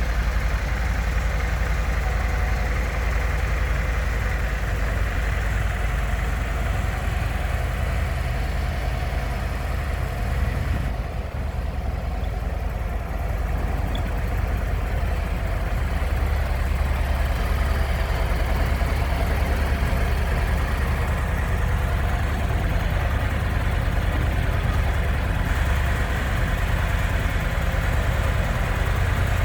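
Harley-Davidson Street Glide's V-twin engine idling steadily.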